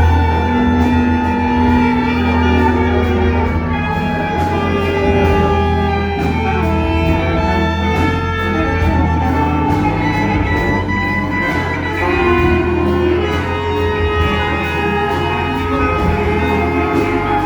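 Large improvising ensemble playing live: many long held notes layered over a steady low drone, with a light pulse of percussive strokes.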